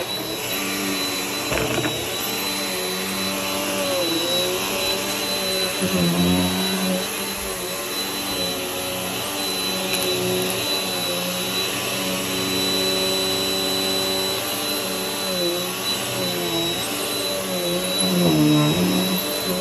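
Vacuum cleaner running steadily with a thin high whine, its motor hum briefly dipping in pitch several times.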